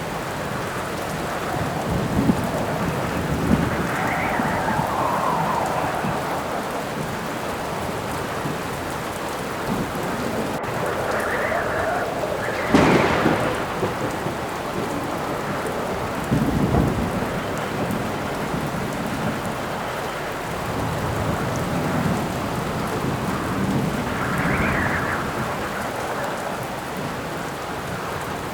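Steady heavy rain with rumbles of thunder and gusts of howling wind that swell and fade. A sharper crack of thunder, the loudest moment, comes about halfway through.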